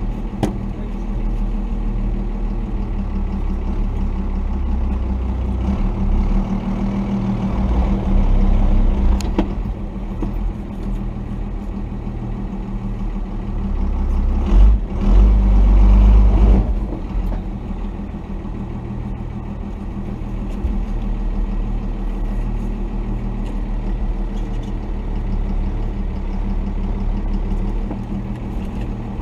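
Cummins 5.9-litre inline-six turbodiesel of a 1990 Dodge D250 pickup running at low trail speed. It swells louder twice, about seven seconds in and again about fifteen seconds in.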